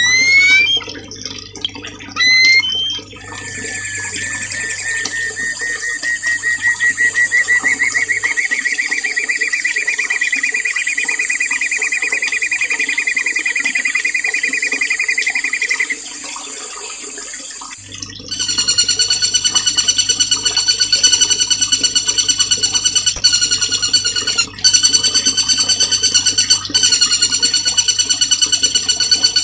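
Songbird song of the kind used as masteran for training cage birds: a few short rising chirps, then a long fast trill that rises slowly for about thirteen seconds, and from about eighteen seconds a quick, even trill of several ringing tones. Running water sounds faintly behind the bird.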